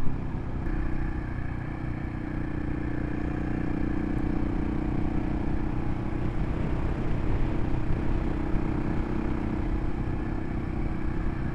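Single-cylinder adventure motorcycle engine running at a steady cruising speed, heard from the rider's position along with wind and road noise on wet pavement.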